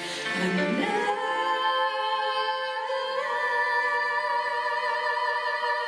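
Choir singing a sustained chord with vibrato. The voices slide up into the chord within the first second and step up again about three seconds in.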